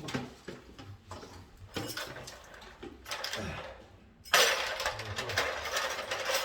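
Tools and materials being handled during electrical wiring work: scattered knocks and clicks, then a louder scraping rustle starting a little past the middle.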